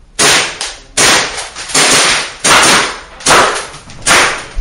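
A practical pistol stage being shot: a steady string of about six pistol shots, roughly one every three-quarters of a second, each a sharp crack that rings on in the room.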